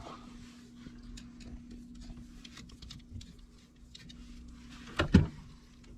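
Steady low machine hum with scattered light ticks, and a sharp double knock about five seconds in.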